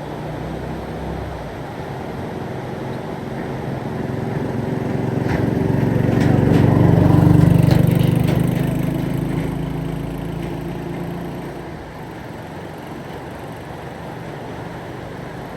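A motor vehicle's engine hum growing louder, peaking about seven seconds in and then fading away, as a vehicle passes by.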